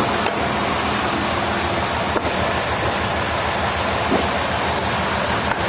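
Steady din of running sawmill machinery: a dense, even noise over a low engine hum, with a few faint clicks.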